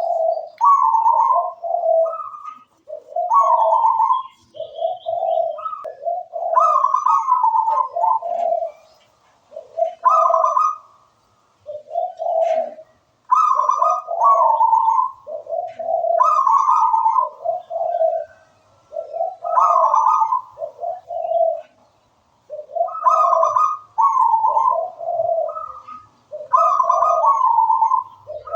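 Zebra dove (perkutut) cooing its song over and over: phrases of rolling coos that alternate between a higher and a lower note, each phrase a couple of seconds long with short pauses between.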